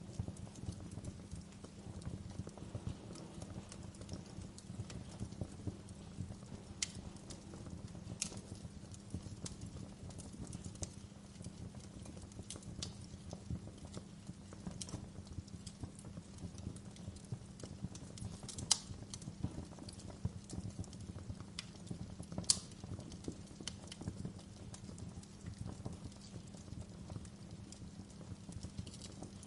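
Fire burning with a steady low rumble and dense, soft crackling, broken by a handful of louder, sharp pops.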